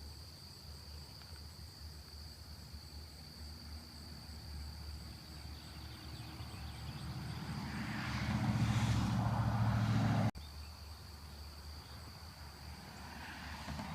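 A vehicle passing on the road, growing louder over several seconds to a peak, then cut off abruptly; another begins to come up near the end. A steady, high-pitched drone of crickets runs underneath.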